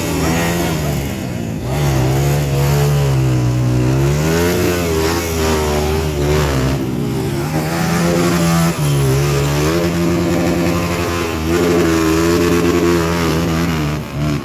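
Trail motorcycle engine revving hard and continuously, its pitch rising and falling again and again as the throttle is worked.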